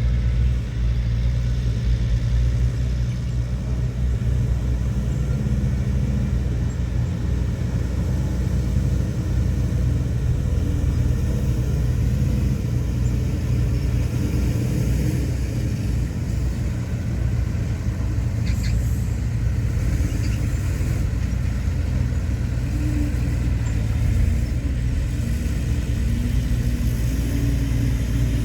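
Heavy diesel engine of earthmoving machinery running steadily, a deep constant rumble, with a few faint metallic clinks about two-thirds of the way through.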